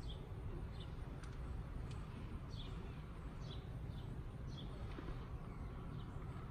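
A small bird chirping over and over, short high chirps that fall in pitch, over a low steady rumble.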